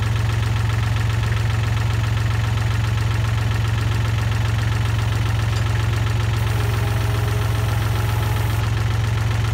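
International 274 offset tractor's Nissan three-cylinder diesel idling steadily.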